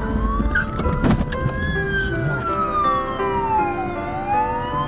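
Ambulance siren wailing in a slow rise and fall: it climbs for the first couple of seconds, falls until near the end, then starts climbing again, over background music. A sharp knock about a second in is the loudest moment.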